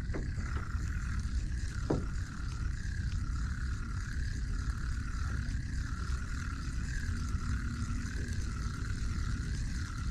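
Kayak drive whining, its pitch wavering up and down about once a second, over a low rumble of wind on the microphone.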